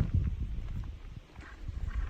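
Footsteps of a person walking along a trail, an irregular series of short thumps over a low rumble on the microphone.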